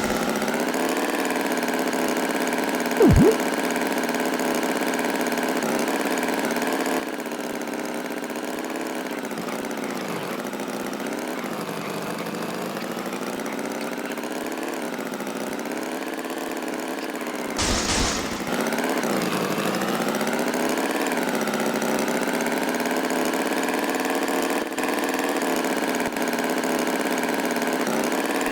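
Cartoon tractor engine sound effect running steadily, its pitch wavering up and down. There is a short loud blip about three seconds in and a brief burst of noise a little past halfway.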